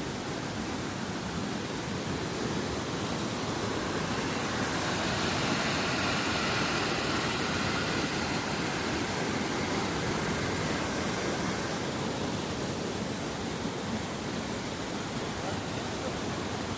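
Waterfall: water rushing and splashing as a steady hiss, a little louder and brighter between about five and twelve seconds in.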